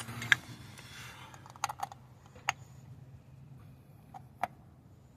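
Scattered sharp clicks and taps from hand tools being handled: a few close together at the start, then single ones spaced a second or more apart.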